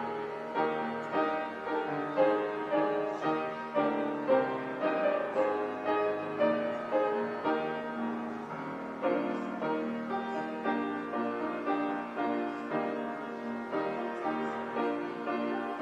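Piano playing a slow, steady instrumental piece of evenly paced notes and chords.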